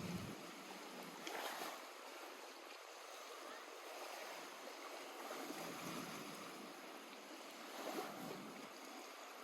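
Lake water lapping gently at the shore: a faint, steady wash with a brief swell about a second and a half in and another near the end.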